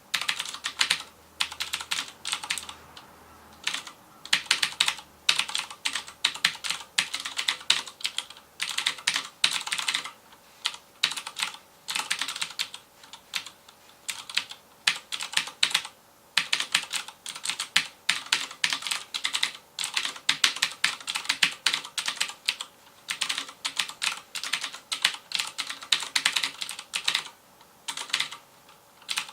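Fast typing on a FILCO Majestouch Convertible 2 mechanical keyboard with Cherry MX Blue switches: rapid clicky keystrokes in runs of a few seconds, broken by short pauses.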